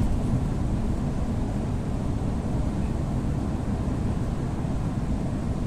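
Steady low rumble inside a moving ÉP2D electric train carriage.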